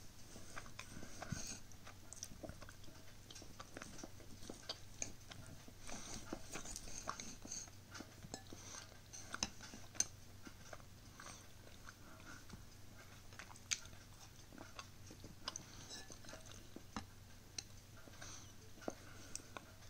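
Close-up chewing and biting of a homemade toaster pastry, with a knife and fork clicking and scraping on a ceramic plate as it is cut; a few sharper clicks stand out about halfway through. A faint low hum runs underneath.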